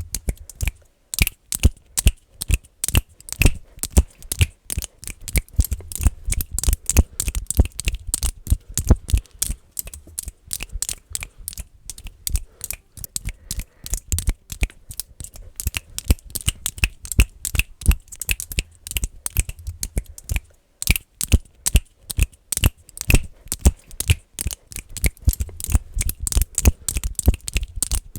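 Fast, aggressive finger clicking: a dense run of short sharp clicks, many a second, with a brief break about twenty seconds in.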